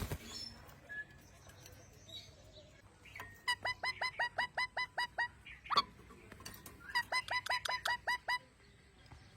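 A parrot calling in two rapid runs of short, sharp repeated notes, about five a second, each note dipping in pitch, with a single louder call between the runs.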